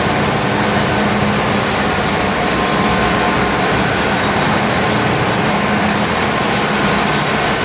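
Bulk carrier's engine room machinery running: a loud, unbroken mechanical din with a steady hum and a few high whining tones running through it.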